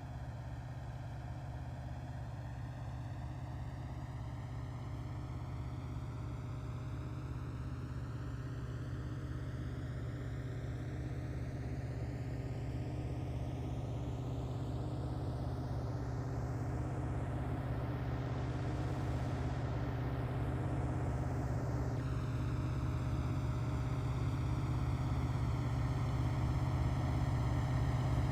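Diesel locomotives of a freight train running with a steady low rumble, growing slowly and steadily louder as the train approaches.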